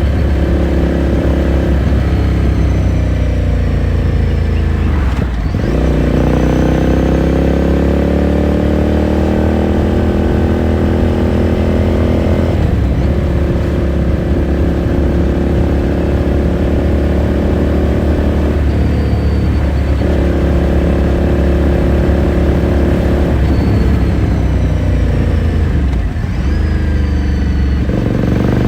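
Ducati Scrambler Sixty2's air-cooled L-twin heard onboard through its exhaust while riding. It pulls with a rising pitch, breaks off briefly as it shifts gear about five, twelve and nineteen seconds in, and falls away near the end as the bike slows, then picks up again.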